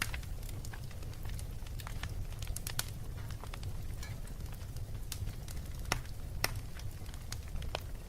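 Wood fire burning in a fireplace: a steady low rumble with irregular crackles and sharp pops, the loudest pops a little past the middle.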